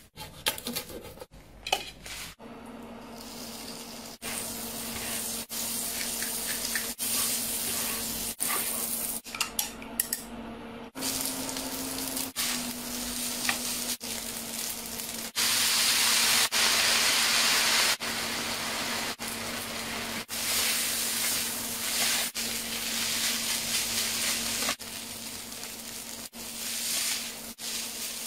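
A few sharp knife taps on a cutting board, then rice and chillies sizzling as they are stir-fried on a hot cooking stone, with a spatula scraping and turning them. The sizzle is loudest around the middle, over a steady low hum.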